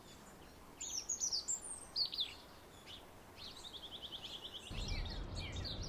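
Small birds singing: a few quick, falling high chirps in the first half, then a fast, even trill of high notes about three and a half seconds in. A low rumble of background noise comes in near the end under further chirps.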